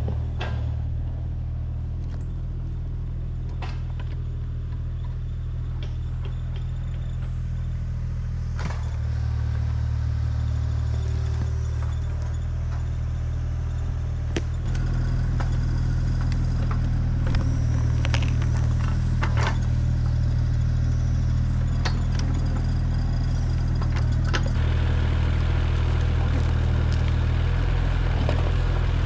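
Mini excavator's diesel engine running steadily, working harder and louder a couple of times, with scattered clanks and rattles.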